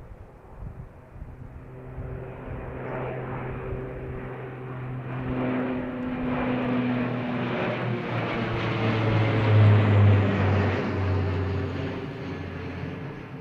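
Passenger plane taking off: its engine roar builds steadily, is loudest about ten seconds in, then fades as the plane climbs away.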